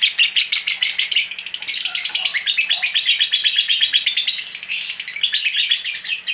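Female lovebird chattering non-stop in its ngekek song: a long, unbroken run of rapid, shrill chirps, about ten a second.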